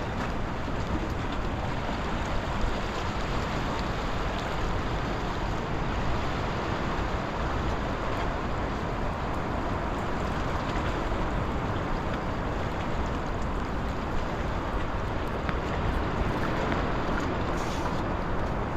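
Steady wind rushing over the microphone with the wash of sea surf against the breakwater, a dense even noise heaviest in the low end.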